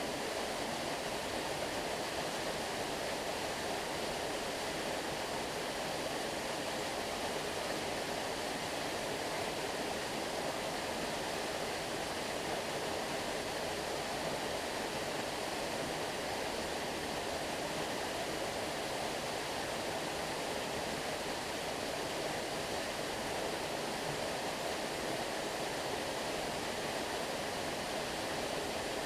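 Stream water flowing, a steady, even rush that does not change.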